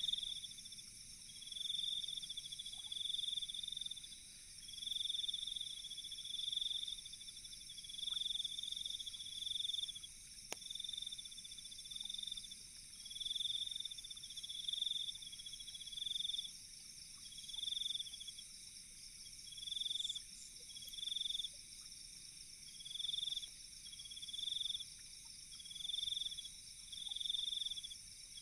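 Night insects in chorus, one kind chirping in high-pitched trains about every two seconds over a steady high buzz from others. A faint crackle from the campfire comes about ten seconds in.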